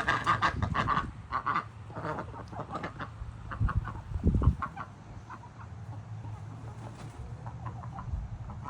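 Backyard chickens clucking with ducks quacking, thick at first and then in scattered short calls, with a couple of loud low thumps about halfway through.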